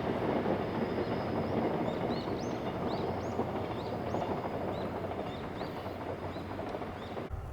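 Passenger train rolling by on the rails, a steady rumble that eases slightly, with a bird chirping repeatedly over it. The sound cuts off abruptly near the end.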